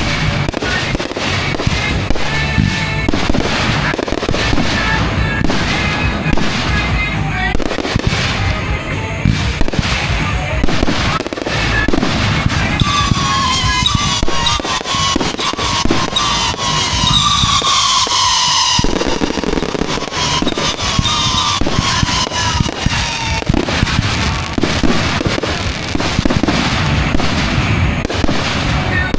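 Fireworks display: continuous booming bursts and crackling shells going off in quick succession, with a cluster of falling whistling tones in the middle that cut off suddenly.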